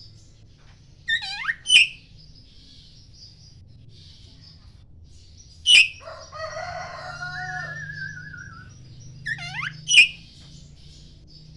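Oriental magpie robin singing: loud, sharp whistled phrases with sweeping notes, about a second in, near six seconds and near ten seconds, with a longer warbling passage after the middle one. Faint high chirping of other small birds goes on throughout.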